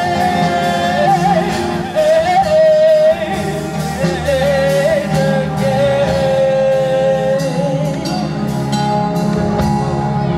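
Live gospel worship music: a singer holds long wavering notes and runs up and down in pitch over an instrumental backing with regular drum hits.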